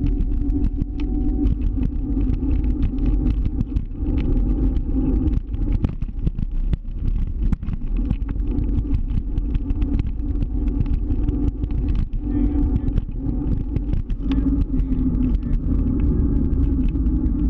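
Electric rental scooter rolling over city pavement: a continuous rumble with a steady hum, broken by frequent short rattles and knocks from bumps in the surface.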